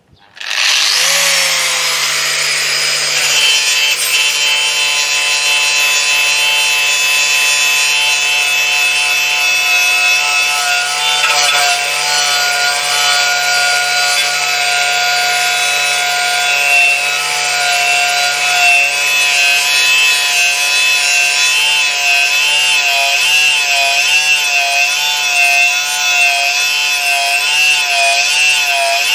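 Power tool with a rust-stripping wheel spinning up and then grinding steadily against rusty steel, taking off rust and paint. The steady motor whine wavers slightly as pressure on the work changes.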